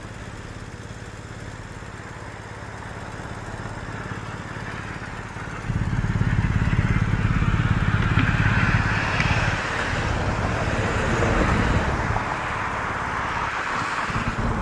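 A motor vehicle engine running steadily, which gets louder about six seconds in as it pulls away under load, with road noise rising along with it.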